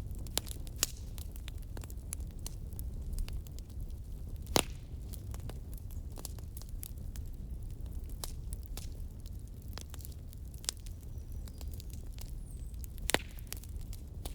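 Wood fire burning, crackling with scattered small snaps over a steady low rumble, and two louder pops, about four and a half seconds in and near the end.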